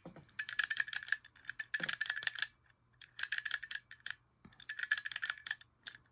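Anti-reverse of a 1944 Shakespeare Service baitcasting reel clattering as the handle is cranked, in four bursts of rapid clicks with a metallic ring. The owner calls it the noisiest, chunkiest anti-reverse he has heard and means to try grease on it.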